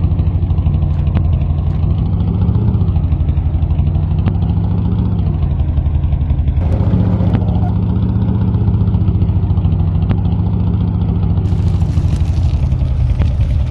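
Heavy army truck engine running steadily under load, its pitch rising and dipping a few times as the throttle changes.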